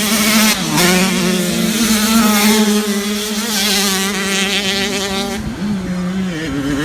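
Motocross dirt bike engines running hard. The pitch holds fairly steady, with short drops and rises as the throttle changes.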